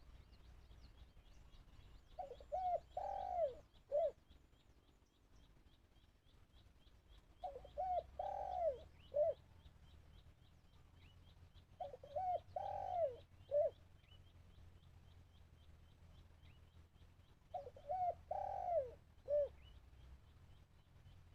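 Spotted dove cooing four times, about every five seconds, each call a short phrase of several rolling notes. It is most likely the caged decoy dove calling to lure wild doves to the trap. A faint, rapid high ticking runs behind it throughout.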